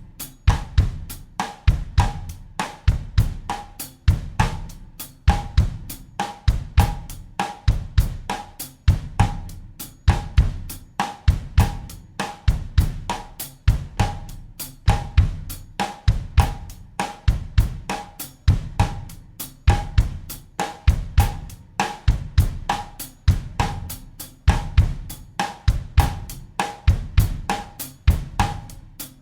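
Acoustic drum kit playing a steady bossa nova groove at 100 BPM in 4/4: bass drum, snare and hi-hat/cymbal in an evenly repeating pattern.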